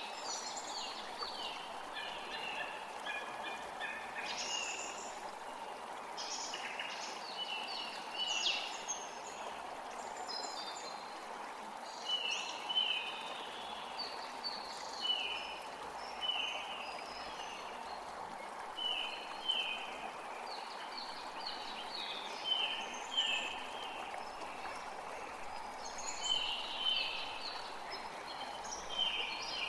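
A forest creek running steadily, with birds singing over it in many short, high notes, some sliding downward, repeated through the whole stretch.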